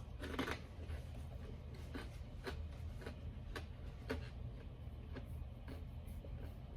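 Close-mic chewing of chicken nuggets: soft, moist clicks about twice a second over a low steady hum.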